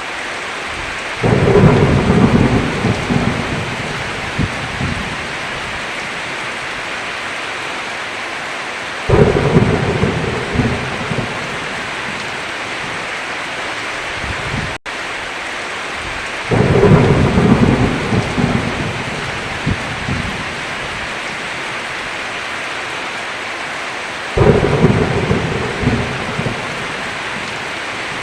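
Steady heavy rain with four sudden rolls of thunder, roughly every seven to eight seconds. Each roll starts abruptly and rumbles away over a few seconds.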